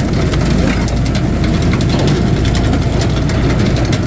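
Engine of a hydraulic firewood splitter running steadily.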